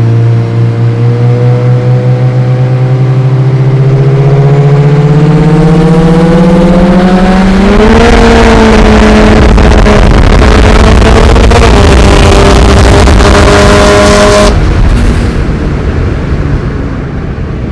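Turbocharged Ecotec V6 (L67) Commodore engine at full throttle in a roll race, heard from inside the car. Its note climbs steadily for about eight seconds, hitches briefly, then holds high under a loud rush of intake and exhaust noise. About fourteen seconds in, the noise suddenly drops away.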